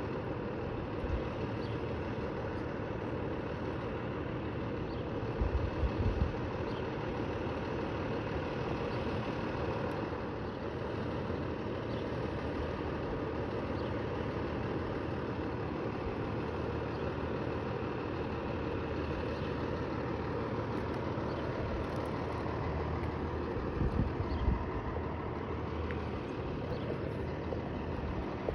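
Large emergency-vehicle engine idling steadily, with a couple of brief low thumps about a fifth of the way in and near the end.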